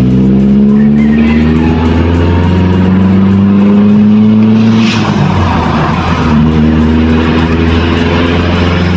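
Toyota Corolla's 2E four-cylinder engine pulling under load as the car accelerates, its pitch rising steadily for about four seconds, dropping sharply at a gear change about five seconds in, then rising again.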